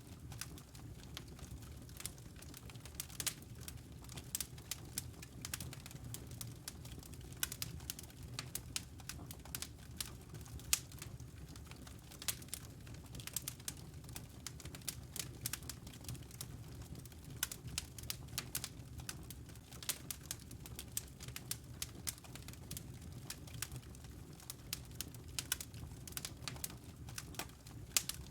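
Wood fire crackling in a fireplace: irregular sharp pops and snaps, many a second, over a low steady rumble.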